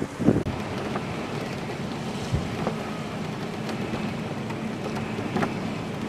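Severe thunderstorm wind and rain: a steady rushing noise, with a gust buffeting the microphone at the very start.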